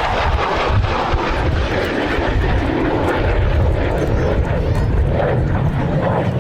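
Fixed-wing aircraft engine noise: loud and steady throughout.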